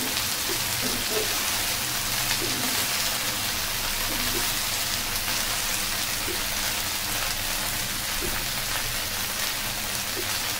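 Chopped okra sizzling in hot oil in a frying pan, a steady hiss.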